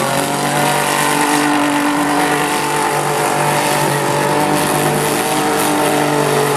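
Demolition derby vehicle's engine running at high revs, its pitch held steady after climbing.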